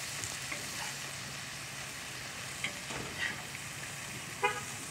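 Bacon and burger patties sizzling steadily on a Blackstone flat-top griddle, with a brief sharp sound about four and a half seconds in.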